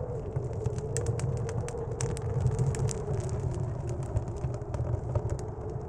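Blizzard wind rumbling low, with a faint wavering tone above it, over a wood stove fire crackling in scattered sharp pops.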